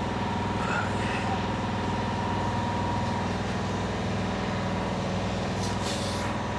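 Electric dual-action car polisher running steadily, a constant motor hum.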